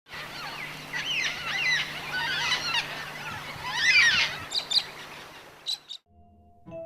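Many birds calling at once, overlapping quick rising and falling chirps over a hiss of outdoor background. They cut off about six seconds in and soft sustained music notes begin.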